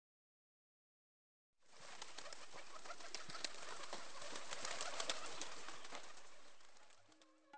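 Birds, with many small chirps and clicks over a steady hiss, fading in after about a second and a half of silence and fading out near the end.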